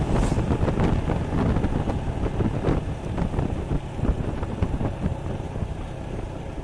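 Heavy wind rush on the action-camera microphone over the running engine of a Suzuki Gixxer 155, a single-cylinder motorcycle, on the move; the rush eases off gradually as the bike slows.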